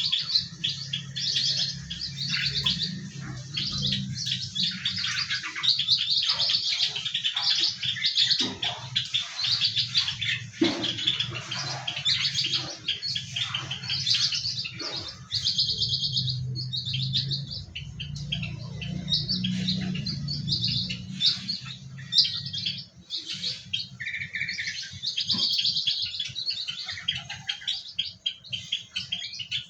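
Many small aviary birds chirping and twittering at once in a dense, continuous chatter. A low steady hum runs underneath and stops about two-thirds of the way through.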